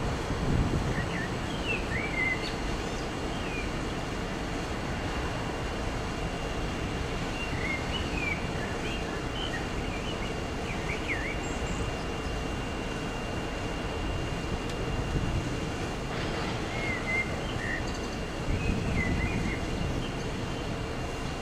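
TransPennine Express Class 802 train running slowly over junction pointwork, a steady low rumble with a faint steady hum that swells about half a second in and again near the end. Small birds chirp on and off over it.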